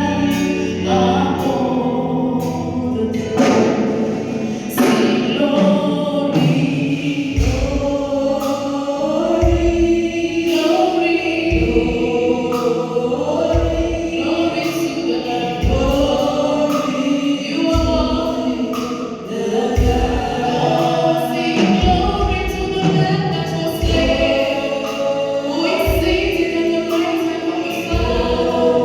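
A choir singing with music. A low, regular thudding beat joins about a quarter of the way in.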